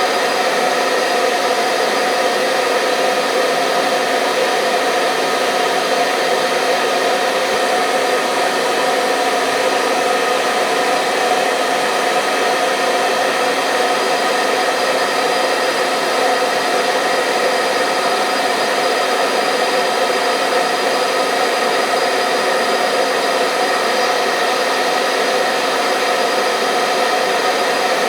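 Hair dryer running steadily: a constant rush of blown air with a motor hum of several steady tones, unchanging throughout.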